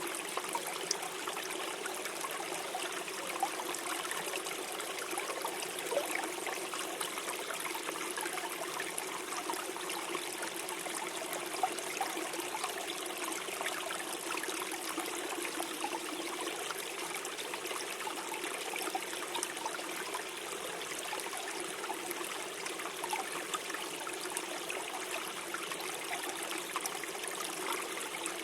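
Shallow forest stream flowing steadily, gurgling and trickling over stones.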